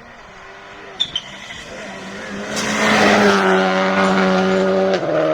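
Rally car engine coming on at full throttle, growing louder over a couple of seconds and then holding a steady high-revving note that steps down in pitch near the end. Two sharp cracks come about a second in.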